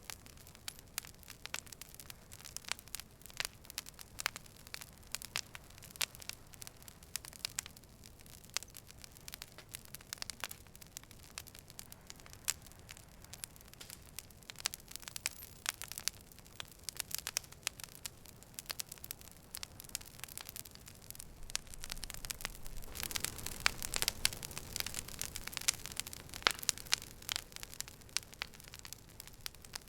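Campfire burning, with irregular sharp pops and crackles over a soft hiss. The crackling grows busier and louder about three-quarters of the way through, then settles again.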